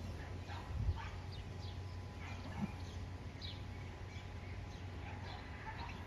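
Birds chirping repeatedly in short falling notes over a steady low background hum, with a soft knock about a second in.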